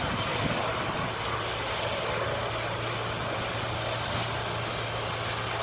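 A large truck engine running steadily, a low hum with an even hiss over it.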